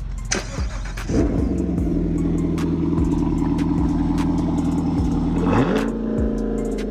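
A 2019 Corvette's V8 running through a Corsa Extreme exhaust with an X-pipe. The engine note sets in about a second in and holds steady, then rises in a rev near the end and settles.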